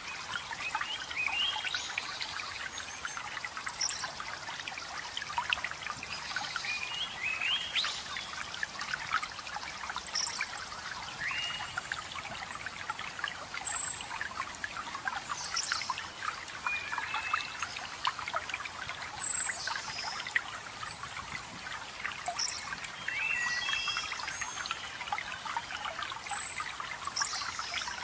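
Waterfall water splashing and trickling steadily. Over it, forest birds give short high chirps and whistled notes every second or two.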